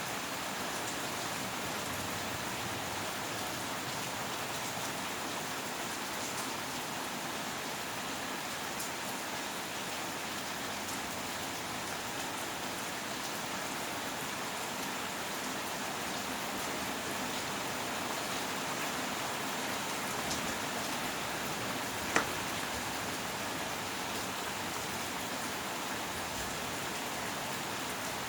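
Steady rain falling, an even hiss with no thunder, broken once by a single sharp tap about three quarters of the way through.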